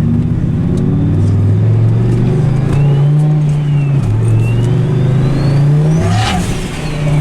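Turbocharged Dodge Ram SRT-10's 8.3-litre V10 pulling under load, with a turbo whine that rises to a peak about six seconds in. At the peak comes a short rush as the throttle lifts, and the whine falls away.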